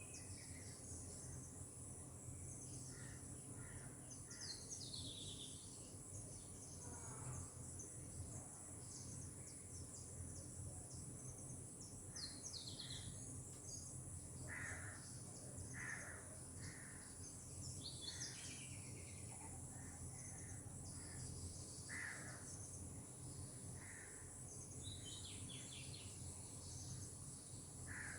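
Birds calling, with quick falling notes and short repeated calls scattered through, over a steady high-pitched insect drone.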